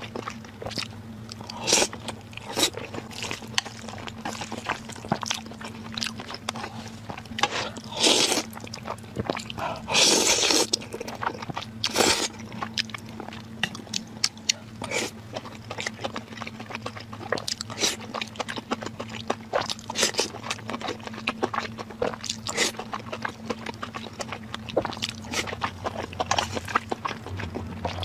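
A person eating close to the microphone: irregular chewing, biting and mouth clicks, with three louder noisy bursts of about a second each near the middle, over a steady low hum.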